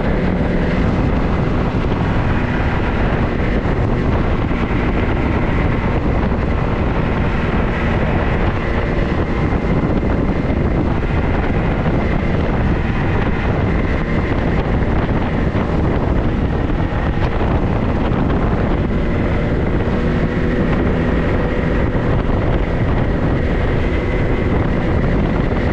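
Vehicle driving at a steady pace: continuous engine and road noise with wind buffeting the microphone.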